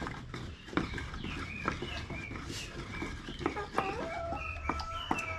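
Chickens clucking, with short calls repeated throughout and a longer held call near the end, over scattered sharp clicks and knocks.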